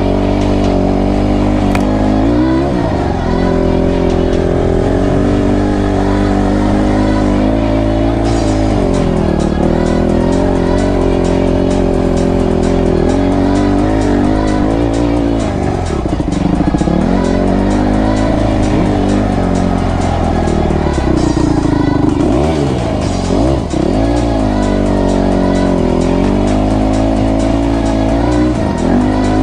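Motocross dirt bike engines revving, the pitch rising and falling again and again as the throttle is worked.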